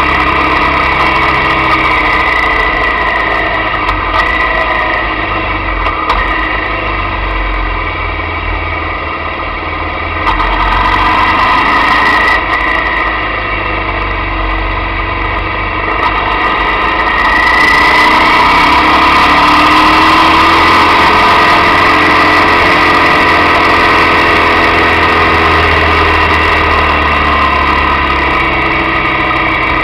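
Motorcycle engine running while riding, picked up by a camera mounted on the bike, its pitch rising and falling with the throttle. It dips a little around ten seconds in, then gets louder and brighter from about seventeen seconds.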